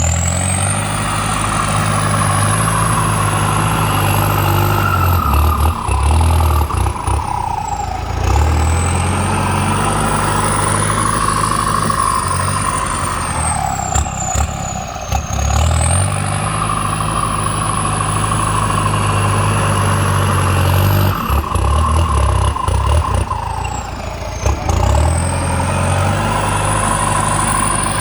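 Kubota tractor's diesel engine working a plow. The engine holds a steady note for several seconds, then dips and changes for a second or two, in a cycle that repeats about every eight seconds. A high whine rises and falls with each cycle.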